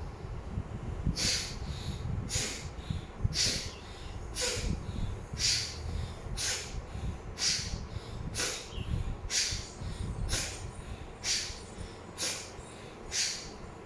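Fast alternate-nostril breathing (Anulom Vilom pranayama): quick, regular breaths forced in and out through one nostril at a time, about two a second.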